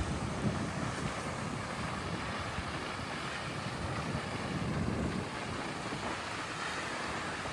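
Waterfall rushing steadily, with wind buffeting the microphone in uneven low gusts.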